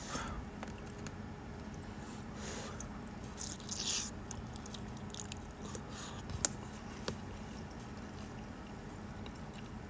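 Someone eating instant chicken pho noodles: soft chewing, a short slurp about four seconds in, and two sharp clicks a few seconds later.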